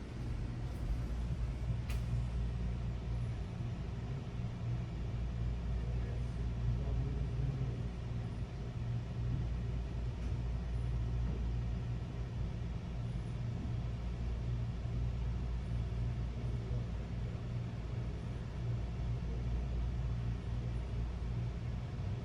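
Steady low rumble of an idling motor vehicle engine, unchanging throughout, with a faint click about two seconds in.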